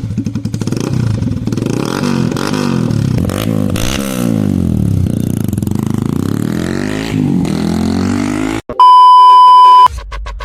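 Yamaha R15 V3 motorcycle's single-cylinder engine revving up and down repeatedly through an Akrapovic slip-on exhaust. Near the end it is cut off by a loud, steady electronic beep lasting about a second.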